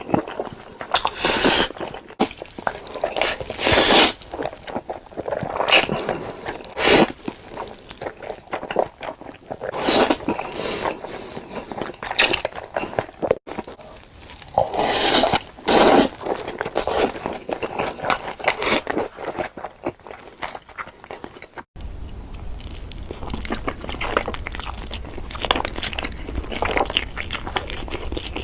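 Eating sounds: crunchy bites and chewing in irregular bursts. About two-thirds of the way through, a low hum comes in underneath.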